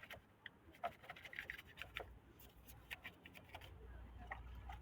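Faint scattered clicks and scratching of hands cleaning oil off a car engine, with a low rumble rising near the end.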